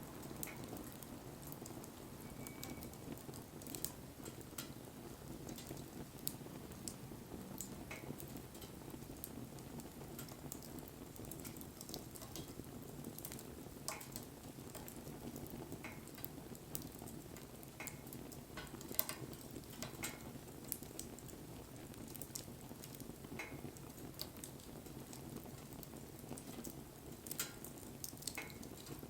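Campfire burning with scattered sharp crackles and pops over a steady low rumble of flame.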